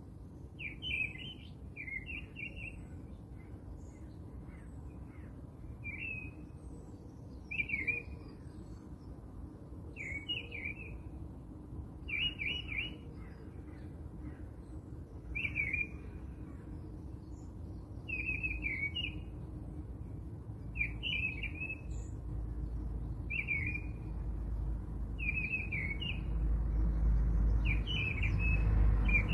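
A bird chirping a short, quick phrase over and over, about once every two and a half seconds, over a low rumble that grows louder in the last few seconds.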